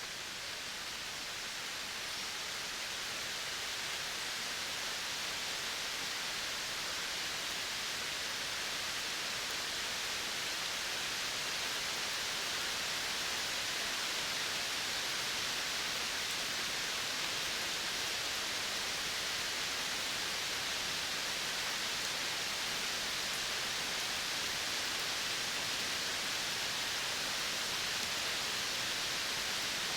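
Steady outdoor nature ambience: an even, unbroken hiss with no distinct calls or knocks, growing a little louder over roughly the first ten seconds.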